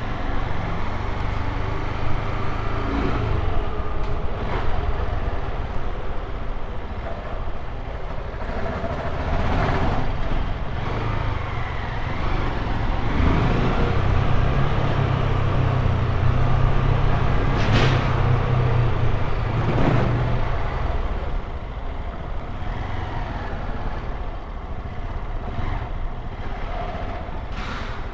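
Honda XRE 190's single-cylinder engine running under way on a city ride, with road and wind noise. The engine gets louder and steadier for several seconds in the middle.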